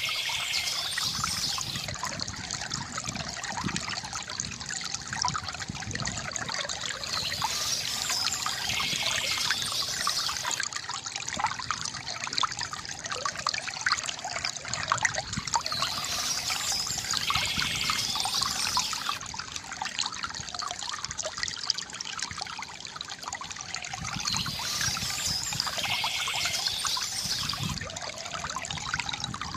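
Gurgling, trickling river water runs steadily, with soft bird chirping that comes back in high bursts about every nine seconds.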